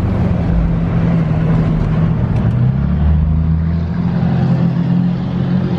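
Duramax LLY 6.6-litre V8 turbodiesel with a 5-inch straight-pipe exhaust running on the road, a loud steady drone that drops to a deeper note about three seconds in.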